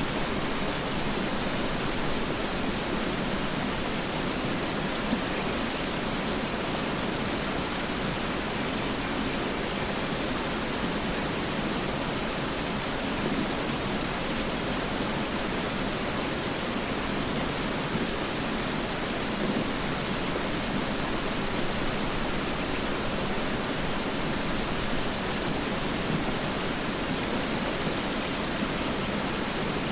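Mountain river flowing: a steady rush of water with no pauses or changes.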